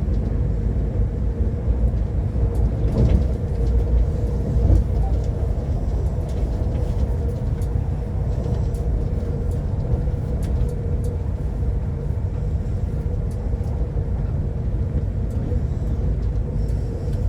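Passenger train heard from inside the carriage: a steady low rumble with a constant hum and a few faint clicks.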